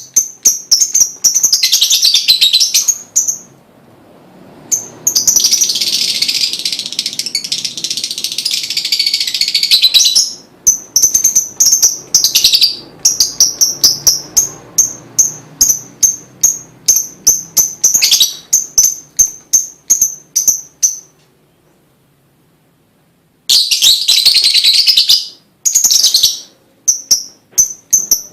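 Lovebird singing loudly: long, rapid, high-pitched chattering trills alternating with runs of short sharp chirps at about two to three a second, broken by a pause of about two seconds.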